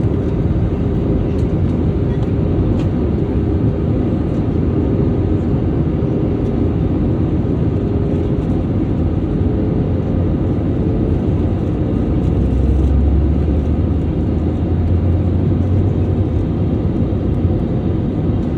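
Steady cabin noise inside an Airbus A320-family airliner: engine and airflow rumble with a faint steady hum, growing a little louder and deeper for a few seconds past the middle.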